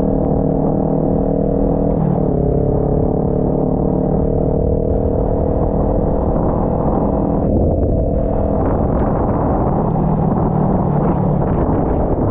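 Kawasaki Ninja 400 parallel-twin engine running under way, under a steady rush of wind noise. The engine note drops sharply about two seconds in, as on an upshift, then rises slowly as the bike accelerates, and fades into the wind noise just past the middle.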